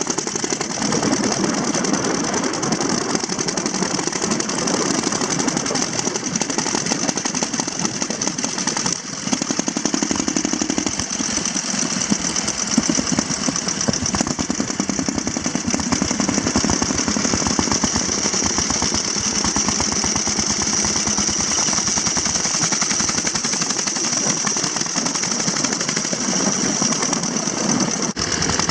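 Antique motorcycle engines running with a rapid, clattering exhaust beat that carries on without a break.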